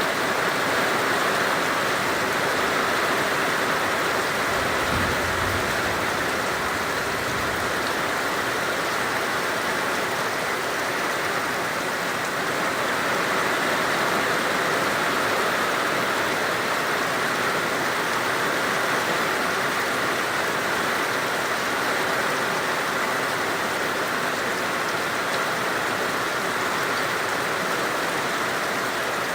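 Heavy rain falling in a steady downpour, an even hiss with no breaks. A brief faint low rumble comes about five seconds in.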